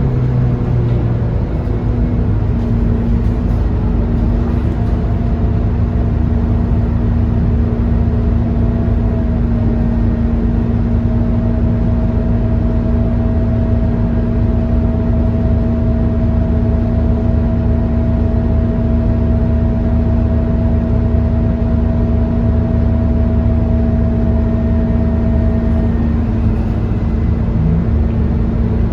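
Scania K230UB city bus with its five-cylinder diesel engine running steadily as the bus drives along, a low rumble under a steady whine.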